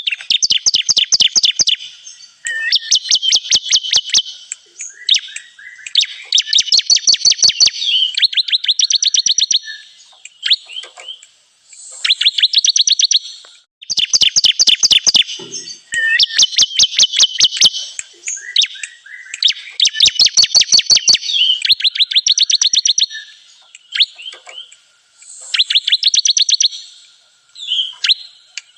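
Ciblek kristal (bar-winged prinia) song played as a bird-lure call: phrases of rapid, evenly spaced high chirps, each lasting a second or two, repeated over and over with short pauses between them.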